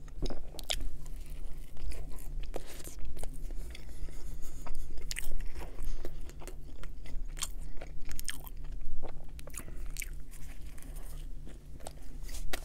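Close-miked chewing and biting of a bread-roll sandwich filled with stuffing, turkey and red pepper jelly, with many irregular sharp mouth clicks. A steady low hum runs underneath.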